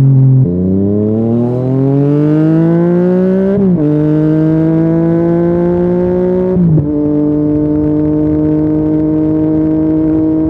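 Yamaha XSR900's CP3 three-cylinder engine through an Akrapovič carbon full exhaust, pulling through the gears. The revs climb for about three seconds, drop at an upshift, climb more slowly, drop at a second upshift about two-thirds of the way in, then hold steady at a cruise.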